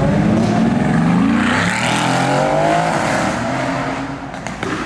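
Lamborghini Aventador's V12 accelerating hard past, its engine note rising in pitch, then easing off and fading near the end.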